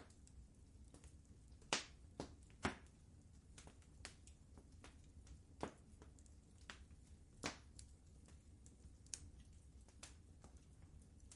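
Fireplace wood fire crackling: irregular sharp pops and snaps, the loudest about two seconds in and again past seven seconds, over a low steady rumble.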